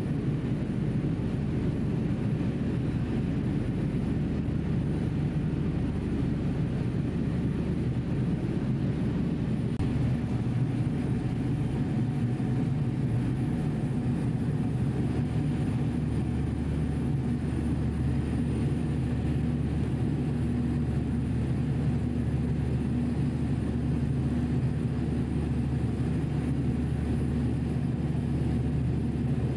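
Passenger ferry's engines making a steady, low drone, as heard on board.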